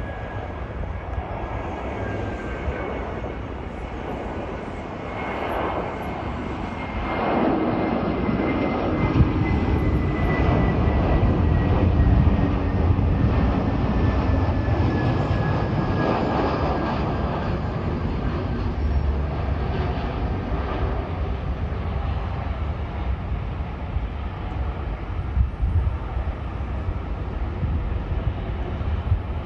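Jet airliner's engines passing by: a rumble that swells about a quarter of the way in, stays loud through the middle and slowly fades, with a thin whine that slides gradually down in pitch.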